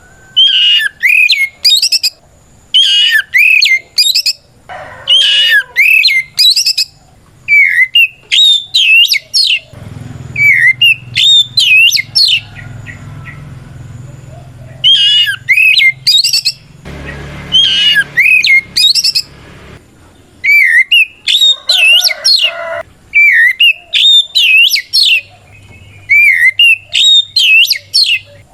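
Oriental magpie-robin (kacer) singing a loud, full challenge song. It delivers short, repeated phrases of rapid, high whistled notes that sweep up and down in pitch, with a pause of a few seconds in the middle.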